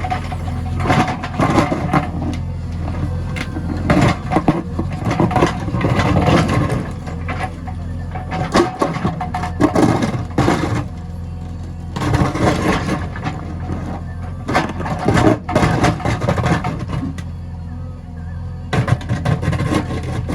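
JCB 3DX backhoe loader's diesel engine running steadily under work, with repeated irregular bursts of clatter and scraping over it.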